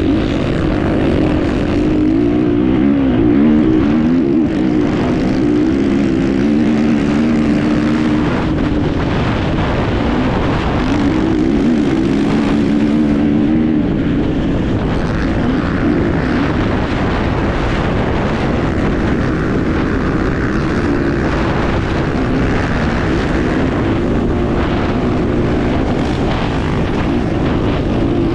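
Enduro motorcycle engine heard on board while riding, its pitch rising and falling as the throttle is worked, over a rough rushing noise.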